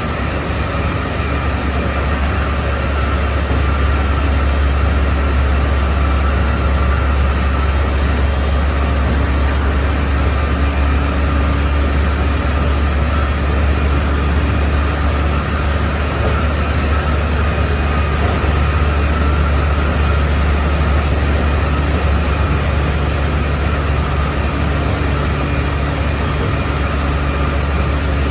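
Keikyu 600 series train running steadily at speed, heard from inside the car: a loud low rumble of wheels on rail with a steady high traction-motor whine from its Mitsubishi GTO inverter drive.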